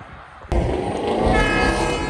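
A loud vehicle noise starts suddenly about half a second in. From just over a second in, a horn sounds a sustained chord of several steady notes together, like a train-style air horn on a vehicle.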